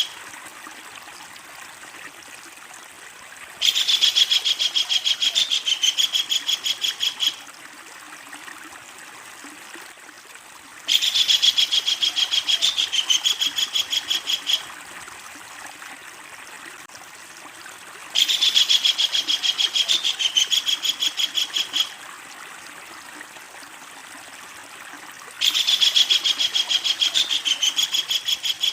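Kingfisher (tengkek udang) giving its long, loud chattering call, a rapid string of about seven sharp notes a second lasting nearly four seconds. The call comes four times at even intervals over a steady background hiss.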